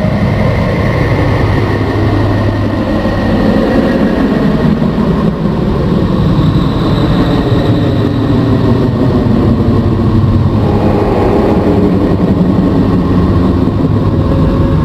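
Planetary radio emissions converted to sound: a loud, continuous droning rumble with faint tones shifting slowly over it.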